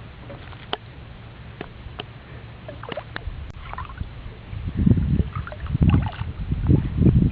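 Water sloshing and splashing around a small boat, with scattered sharp ticks. In the second half, several loud low gusts buffet the microphone.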